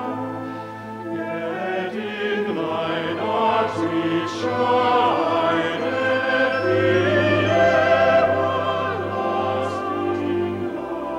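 Orchestral Christmas music with a choir and operatic singing in long held notes with vibrato over a sustained low bass note.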